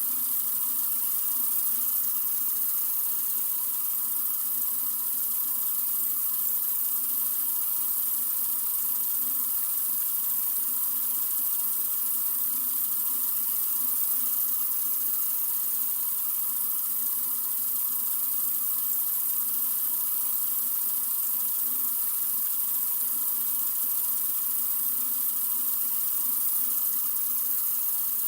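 Sink faucet running in a steady, continuous stream: an even hiss of water that doesn't change.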